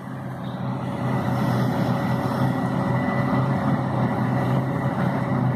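Steady low engine drone of a forage harvester and the silage truck running alongside it, swelling slightly over the first second and then holding even.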